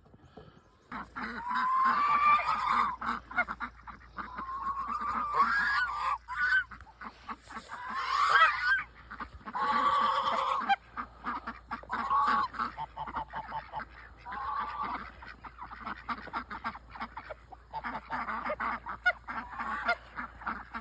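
Geese honking: a long, busy run of repeated calls from several birds, starting about a second in.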